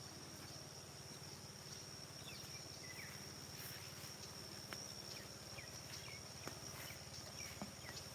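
Insects trilling in one steady, high-pitched tone, with a scattering of short, faint chirps and a few soft clicks over it.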